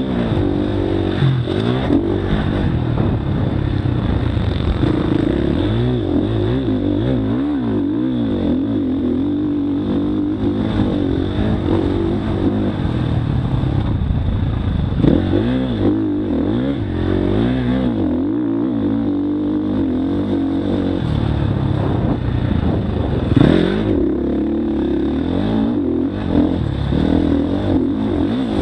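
Motocross bike engine being ridden hard, its pitch constantly rising and falling with throttle and gear changes. There are a couple of louder knocks, about halfway through and again near the end.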